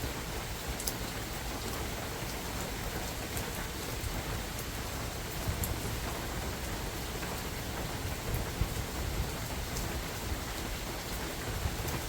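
Steady spring rain falling in a forest, a constant hiss with scattered individual drops ticking close by. Wind buffets the microphone in low rumbles now and then.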